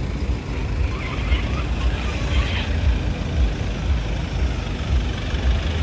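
Motor vehicle running close by: a steady, low engine rumble.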